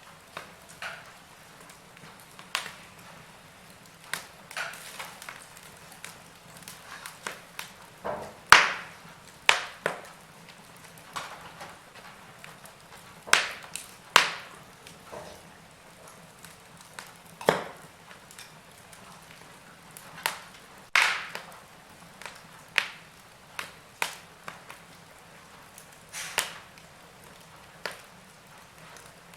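Wood fire crackling in a fireplace: irregular sharp pops and snaps over a faint steady hiss, a few loud cracks standing out, the loudest about a third of the way in.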